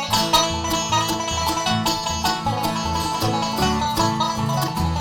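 A live bluegrass band playing the instrumental opening of a song: banjo and guitar picking over a steady bass line.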